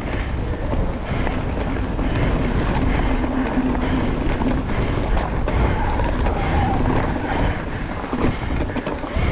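Riding noise from an e-mountain bike on a dirt trail: a steady rumble of wind buffeting the camera microphone, mixed with tyre and trail noise.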